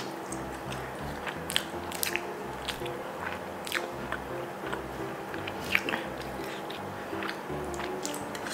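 Close-miked biting and chewing with wet mouth clicks and smacks as a mouthful of fried egg is eaten, over soft background music with a steady beat.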